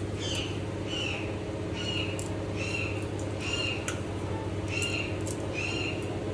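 A bird chirping over and over, short calls about once a second, over a steady low hum, with a few light clicks.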